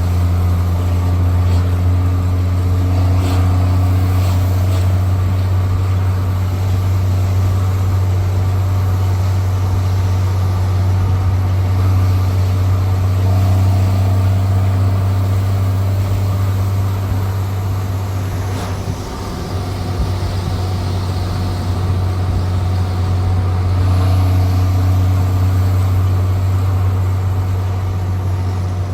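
Straight-piped Cummins C8.3 diesel of a 1995 Carpenter school bus running with a loud, deep, steady exhaust drone. It eases off briefly about 19 seconds in, then comes back up.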